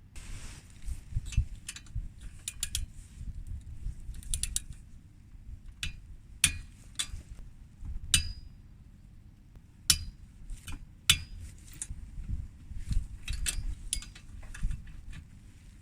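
Hand tools working on the cylinder head of a Suzuki Colleda two-stroke engine as it is taken apart: irregular metallic clicks, clinks and knocks, a few of them sharp and ringing briefly.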